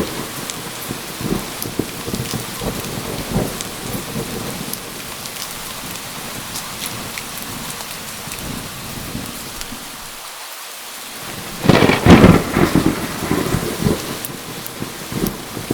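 Steady heavy rain with a clap of thunder about twelve seconds in that rumbles on toward the end.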